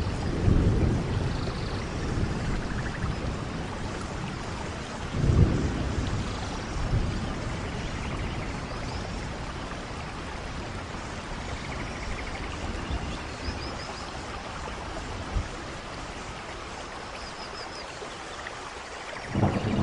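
Steady rain with rumbles of thunder: one about half a second in, the loudest about five seconds in, and another building near the end.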